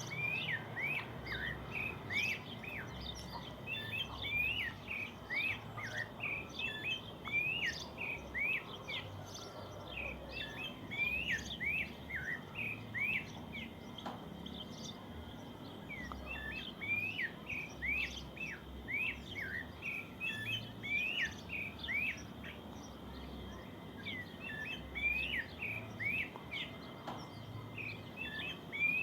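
Birds singing in the morning: runs of short, quick high chirps with brief pauses between bursts, over a faint low rumble.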